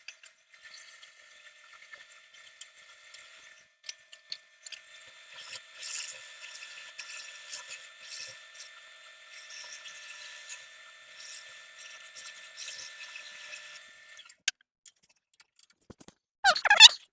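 Wood lathe running with a steady whine, overlaid with repeated bursts of high hissing scraping as a tool works the spinning wood. The whine stops about three seconds before the end, followed by a short squeal.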